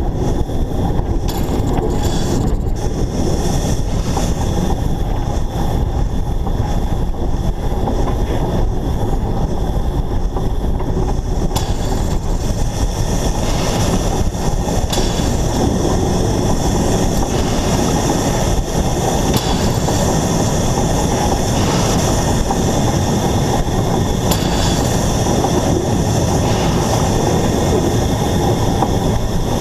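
Narrow-gauge steam locomotive running along the line, heard up close from a camera fixed to the engine: a steady rumble of wheels on rails, with more hiss coming in from about twelve seconds in.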